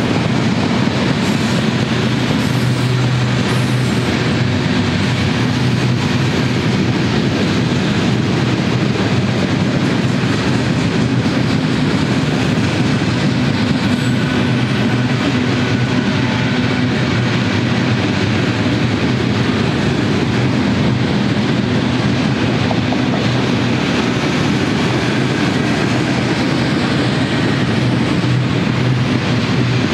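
Freight cars of a long mixed freight train rolling past, their steel wheels on the rails making a steady rumble.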